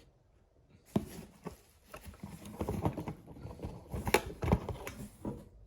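Hand-handling noise: packing material rustling and a run of small clicks and knocks as toys are lifted out of a box and set down. It starts about a second in and stops shortly before the end.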